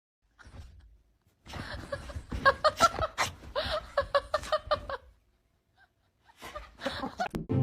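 A person laughing in a quick run of short ha-ha bursts, then, after a pause, a second shorter bout of laughter near the end.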